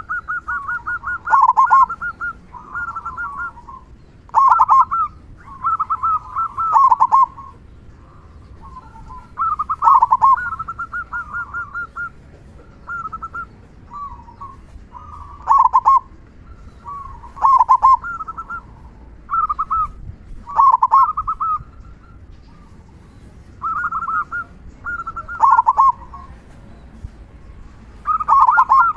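Male zebra dove (perkutut) cooing over and over. Each phrase is a quick run of notes around one pitch, ending in a loud, deeper 'kung' note, and the phrases come every two to three seconds.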